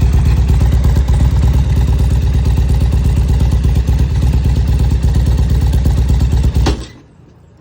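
Harley-Davidson V-twin motorcycle engine idling with a steady, loping pulse, then switched off near the end, cutting out suddenly.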